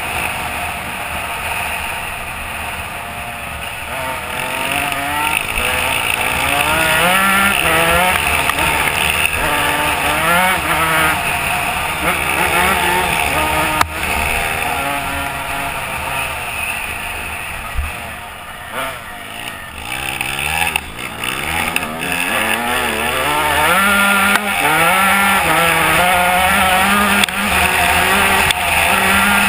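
Dirt bike engine revving up and down over and over as it is ridden through the gears. It quietens briefly about two-thirds of the way through, then comes back loud.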